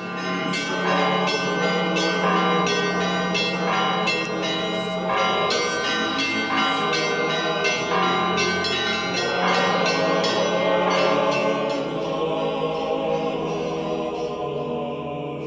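Orthodox church bells ringing, many bells struck in quick succession with their tones ringing on; the strikes thin out about twelve seconds in, leaving the ringing to fade.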